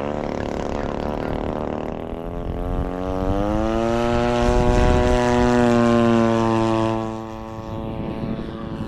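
Two-stroke gas engine of a large RC warbird, a P-47 with an EME 60, opening up to full throttle for takeoff, its propeller drone climbing in pitch over a few seconds, then fading about seven seconds in as the plane pulls away.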